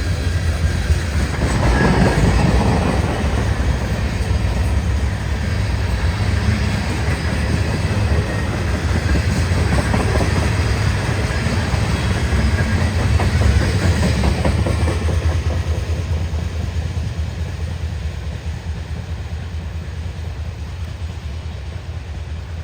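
Train rolling past on the tracks: a steady low rumble with wheels clicking over rail joints, easing off gradually in the last few seconds.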